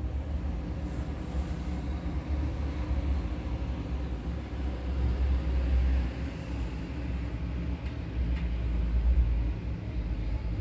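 Low, steady rumble of distant trains and road traffic heard from high above, swelling twice and easing again.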